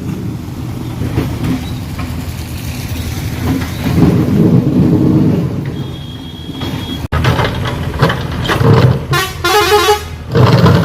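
Road traffic with vehicle engines running and a vehicle horn honking loudly near the end.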